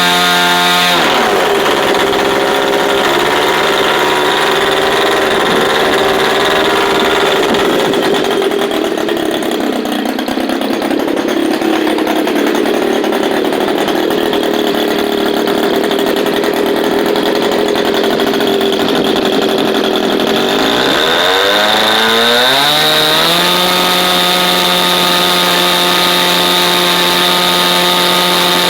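3W-150 R2 gasoline two-stroke model aircraft engine running on test. It throttles down about a second in, runs at a lower steady speed for some twenty seconds, then revs up and holds a high, steady speed near the end.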